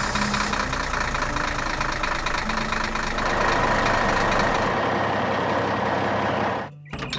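A construction vehicle's engine sound effect, running steadily and loud, cutting off suddenly near the end.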